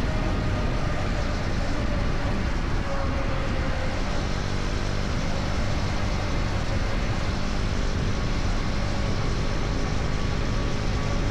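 KTM Duke 250's single-cylinder engine running at cruising speed under heavy wind and road noise, its tone easing slightly lower over the first few seconds.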